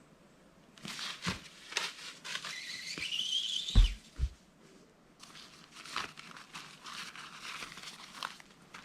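A rock-weighted bear-hang bag being thrown over a high branch: the rope pays out and slides over the branch with a rustling hiss and a rising squeal, then a heavy thud about four seconds in. More rope rustling follows.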